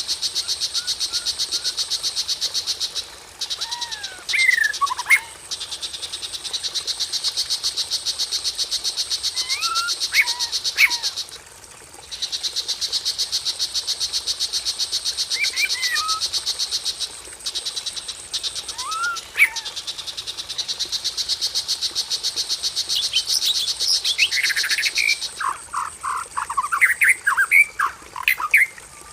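Songbird calls, short rising and falling whistles every few seconds, over a high, very fast pulsing trill that runs in long stretches with short breaks. A quick run of bird notes comes near the end.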